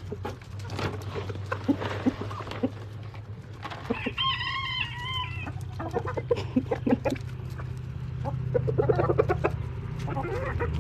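A flock of chickens clucking throughout, with a rooster crowing once about four seconds in.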